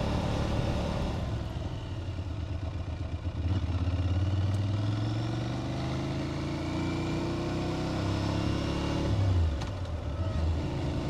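Aprilia Tuareg 660's parallel-twin engine running under way, picking up and getting louder about three and a half seconds in, pulling steadily, then easing off shortly after nine seconds.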